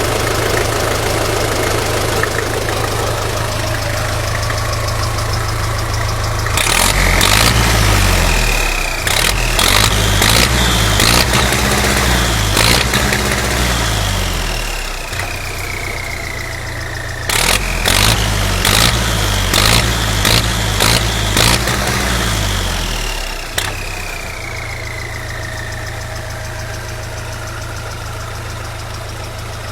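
Belarus tractor's turbocharged diesel engine idling, then revved in two spells of quick repeated throttle blips. After each spell a whistle from the turbo falls slowly in pitch as it winds down, and the engine settles back to a steady idle.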